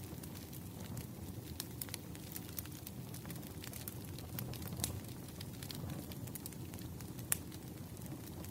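Wood fire crackling: irregular sharp pops and snaps over a low, steady rumble, with a couple of louder pops.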